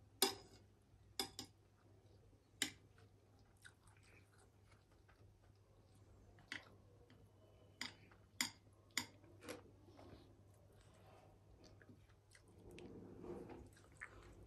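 Close-miked eating sounds of someone chewing ramyun noodles: sparse, sharp wet mouth clicks and smacks, a few in the first three seconds and a cluster a little past halfway, with a softer, longer rush of mouth noise near the end.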